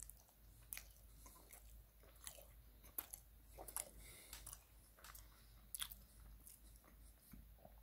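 Faint, close chewing of a soft chocolate tart, heard as scattered wet mouth clicks and smacks at irregular moments.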